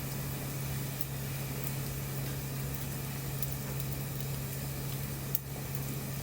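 Wood bonfire crackling and hissing, with faint ticks and one sharp pop a little over five seconds in, over a steady low hum.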